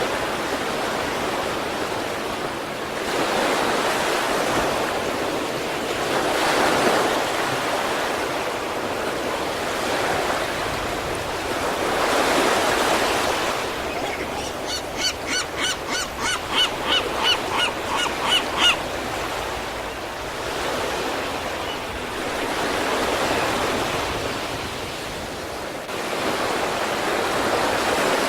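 East Sea surf washing onto the shore, a steady rush that swells in slow surges every few seconds. Midway, a quick run of about a dozen short, high-pitched calls sounds over it for about four seconds.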